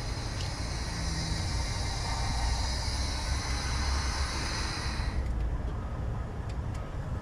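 Semi truck's diesel engine running with a steady low rumble, overlaid by a steady hiss that cuts off suddenly about five seconds in.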